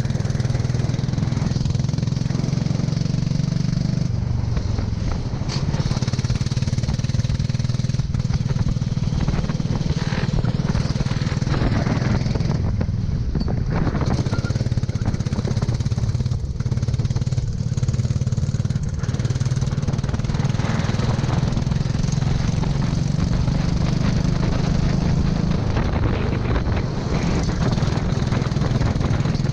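Go-kart engine running continuously at speed, its pitch stepping up and down a few times, with a steady hiss over it.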